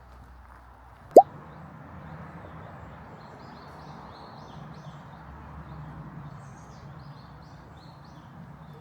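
A single short, loud plop with a quickly rising pitch about a second in, followed by a steady rushing noise, with faint bird chirps.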